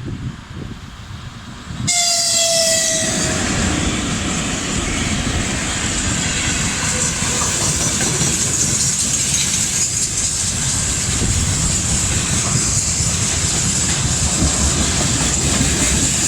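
VL80S electric locomotive gives one short horn blast, slightly falling in pitch, about two seconds in. The steady rumble and wheel clatter of its tank-car freight train passing close by follow.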